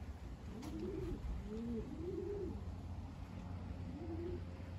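Racing pigeons cooing in the loft: several low rising-and-falling coos, some overlapping, over a steady low rumble of wind on the microphone.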